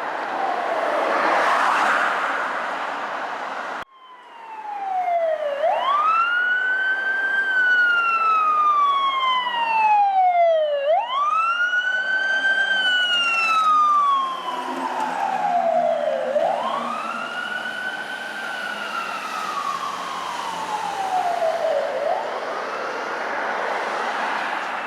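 Emergency vehicle siren on wail: a tone that rises quickly and falls slowly, repeating about every five and a half seconds. The audio cuts abruptly about four seconds in, just before the wail begins.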